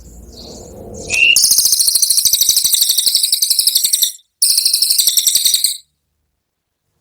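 Cililin songbird giving its 'tembakan' song: a short rising note, then a loud, very fast, high-pitched rattling trill lasting about four and a half seconds, with a brief break partway through, and an abrupt stop.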